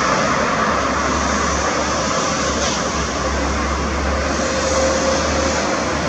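Steady, loud rushing noise of a jet airliner's engines as it comes in to land.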